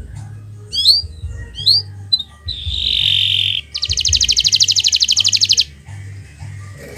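Kenari Nusantara canary singing: a few quick swooping chirps, then a buzzy note, then a fast rattling trill of about ten notes a second that lasts about two seconds.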